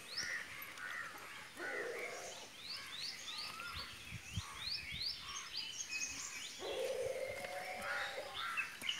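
Birds calling and chirping, a run of many short rising whistled notes repeated one after another.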